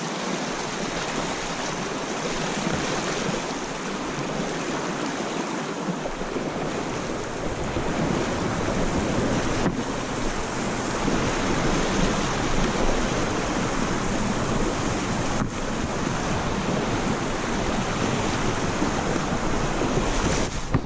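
Steady rush of moving river water, with wind noise on the microphone; the low rumble fills in about six seconds in.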